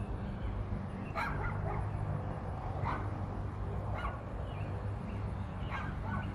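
A dog barking about five times in short single barks, over a steady low rumble.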